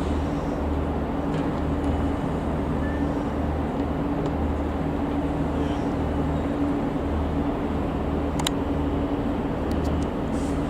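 A 201 Class diesel locomotive's two-stroke EMD V12 engine runs steadily at a constant speed, with a low pulsing throb under a steady hum. A single sharp click sounds near the end.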